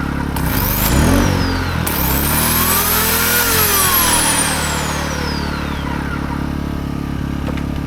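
A corded 15-amp electric chainsaw running off a small 1600-watt gas inverter generator. The chainsaw motor's whine rises and falls in long sweeps over a steady engine drone as the generator struggles under a load at the limit of its capacity.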